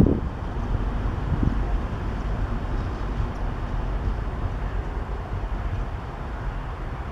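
A train running on the rails: a steady low rumble that fades slightly toward the end.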